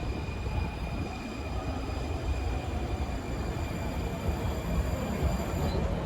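A train running past: a steady low rumble of wheels on rails, with faint steady high-pitched tones over it.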